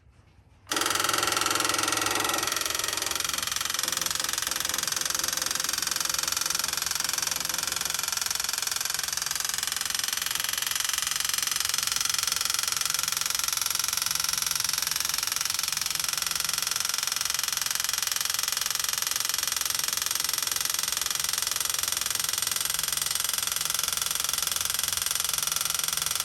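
Small electric piston-type fuel pump switching on about a second in and then running non-stop with a loud, rapid rattling racket while it pumps dry, with no diesel yet drawn up the line.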